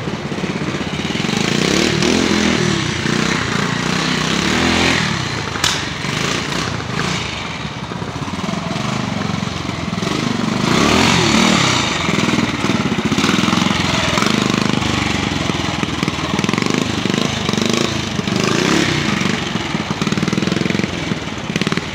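Classic pre-65 trials motorcycle engine working slowly through a muddy woodland section, its note rising and falling over and over as the rider blips and eases the throttle.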